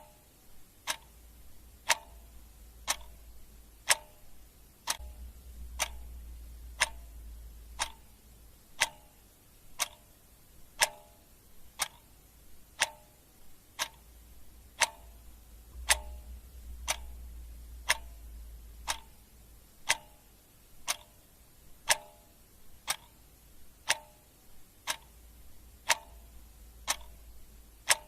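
Clock ticking steadily: about two ticks a second, alternating a stronger and a softer tick in a tick-tock rhythm.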